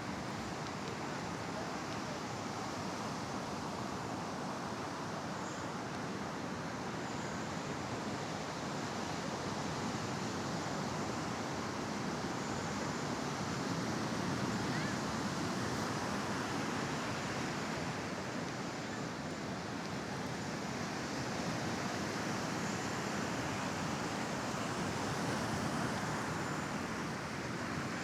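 Small sea waves washing onto a sandy beach: a steady wash of surf that swells gently twice, with some wind on the microphone.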